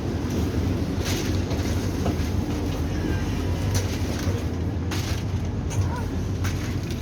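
Steady low hum inside a Vande Bharat Express carriage standing at the platform, with a few short sharp knocks.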